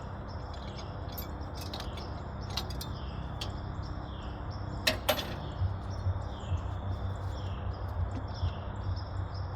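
Scattered metal clicks and clinks of hand tools and bolts as a carburetor is fitted to a tractor's intake, the two sharpest about five seconds in. Underneath there is a steady low hum, and a high chirp repeats about every two-thirds of a second in the background.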